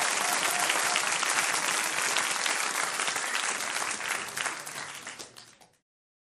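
A large audience applauding, dense clapping that thins out and dies away near the end.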